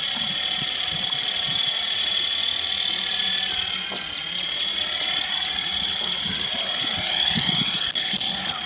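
High-pitched whine of a small RC helicopter's brushed electric motors, the WLtoys V915-A's main and tail motors spinning its rotors. The pitch wavers and then swings down and back up in the last few seconds as the throttle changes.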